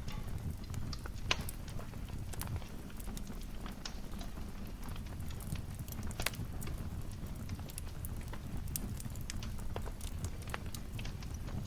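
Fireplace fire crackling: irregular sharp pops and snaps over a steady low rumble of burning, with a louder snap about a second in and another near the middle.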